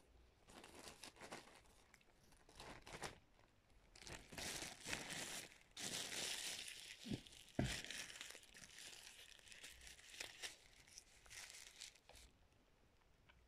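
Close-up crinkling and crunching from eating salted crackers with starch, in uneven bursts, busiest and loudest in the middle.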